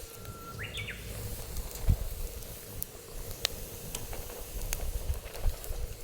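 Wood fire burning in a fire pit: sporadic sharp crackles and pops over a low rumble of wind on the microphone. Near the start there is a brief high whistling tone that jumps up in pitch.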